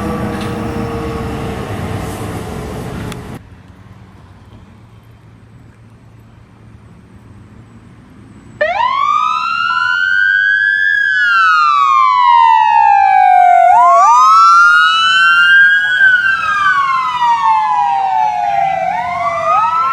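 Emergency vehicle siren cutting in suddenly and wailing, its pitch sliding slowly up and down about every five seconds. Before that, a lower siren-like tone slowly falls with vehicle noise until it cuts off, followed by a few seconds of quiet.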